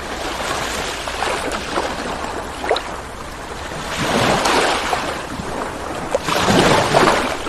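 Ocean waves washing onto the shore, with two louder surges of breaking surf about four and six and a half seconds in.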